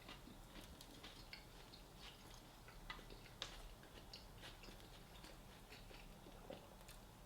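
Faint mouth sounds of a person chewing a sandwich: scattered small, wet clicks, the sharpest about three and a half seconds in.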